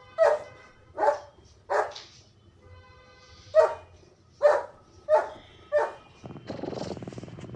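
A dog barking seven times in two runs of short, separate barks. Near the end the barks stop and a cat's steady purring begins.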